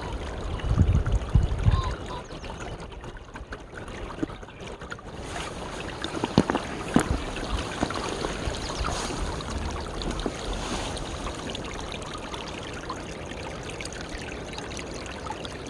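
Steady rush of flowing water, with a low rumble in the first two seconds and a few sharp clicks around six to seven seconds in.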